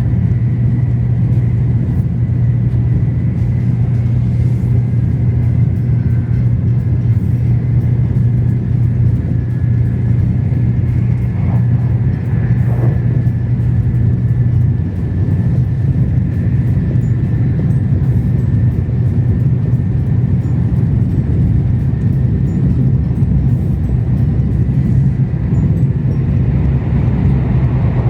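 Steady low rumble of a Sanyo Shinkansen train running, heard from inside the passenger cabin, with a faint thin high tone over it.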